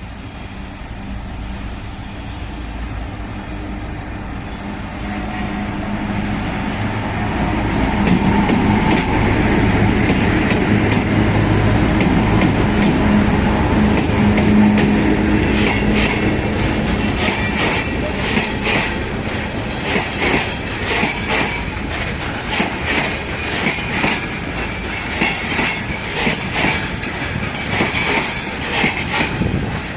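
A freight train passing: the locomotive's hum grows louder over the first several seconds, then from about halfway in the wagons' wheels clatter over the rail joints in a steady, repeating rhythm, with some wheel squeal.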